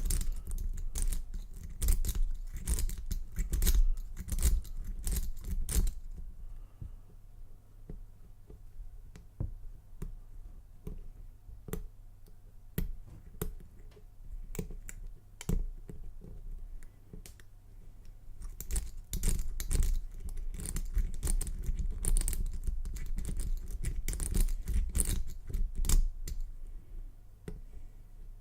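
Metal lock pick and tension wrench clicking and scraping against the pins inside an Abus 83/60 padlock's seven-pin Trioving SEC core during single-pin picking. Dense runs of quick clicks come for the first few seconds and again from about 18 to 26 seconds in, with only scattered ticks between them.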